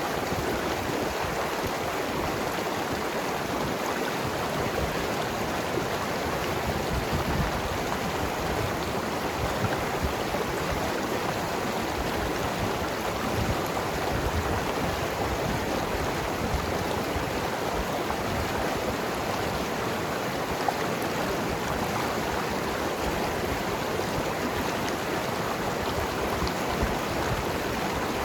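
Mountain river rushing and gurgling over rocks, a steady even flow of water.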